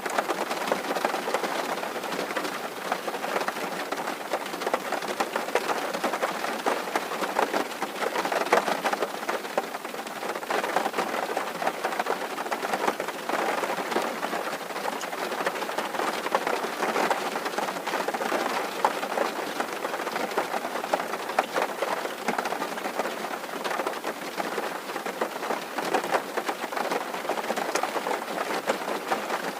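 Steady rain drumming on a tin roof: a dense, unbroken patter of drops that holds even throughout.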